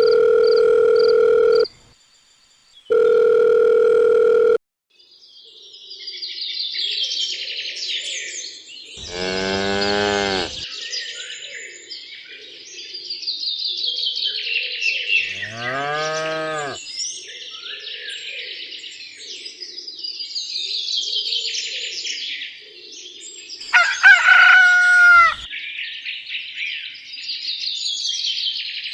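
Two long, steady electronic beeps, then a continuous chorus of chirping birds with cows mooing twice and a higher, shorter animal call near the end.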